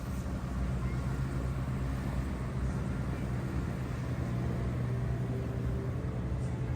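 Engine running with a steady low drone at an unchanging pitch, cutting off sharply at the end.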